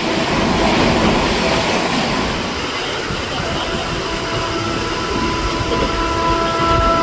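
A fast train running past with a steady rushing rumble, and a train horn that sets in faintly about three and a half seconds in and grows stronger.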